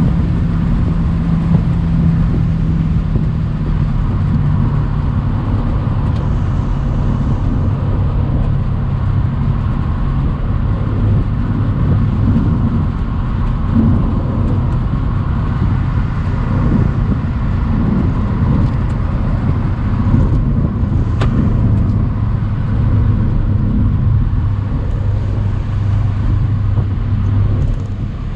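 Mercedes-AMG C63 twin-turbo 4.0-litre V8 running while the open cabriolet drives along a country road, heard with road and wind noise. The engine note drops in pitch a few seconds in, then holds steady at a lower pitch.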